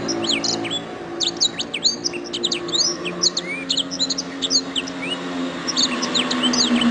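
Domestic canary singing a fast, continuous song of quick chirps, sweeping whistles and short trills, with brief pauses between phrases.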